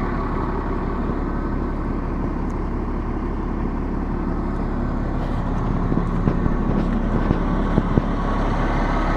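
Kenworth T300 dump truck's Caterpillar 7.2-litre diesel engine idling steadily, heard from outside the truck. A few light clicks come about six to eight seconds in.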